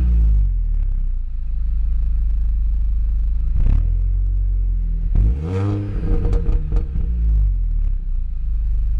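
Mini Cooper S R53's supercharged 1.6-litre four-cylinder engine dropping back to idle from a rev, idling steadily, then given a quick throttle blip about three and a half seconds in. A bigger rev follows about five seconds in, rising and then falling back to idle.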